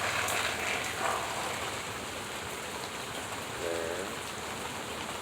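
Rain falling steadily, with water from the roof gutter splashing and running down a downspout. A louder rush of water fills the first second or so.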